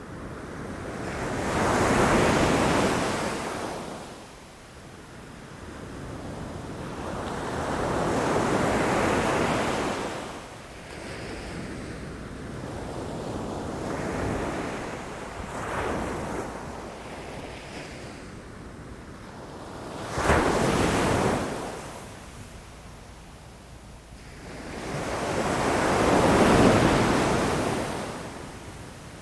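Ocean waves crashing against rocks, rising and falling in slow surges every few seconds. One breaker comes in with a sudden sharp crash about two-thirds of the way through, and the largest swells are near the start and near the end.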